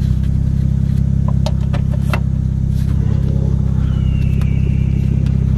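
A car engine idling steadily, heard from inside the cabin as a loud, even low hum. A few short clicks come close together around a second and a half to two seconds in.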